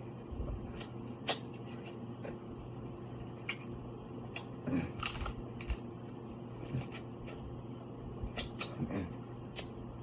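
Close-up eating sounds of seafood being shelled and chewed: scattered sharp cracks, clicks and wet squishes, bunched in two short flurries around the middle and near the end, over a steady low hum.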